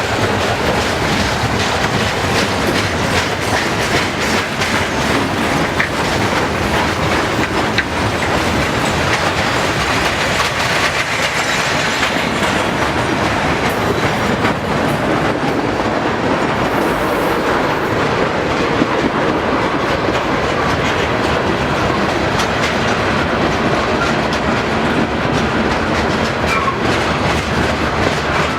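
Freight cars of a passing manifest train rolling by at steady speed, steel wheels clicking over the rail joints in a continuous, even rush of noise.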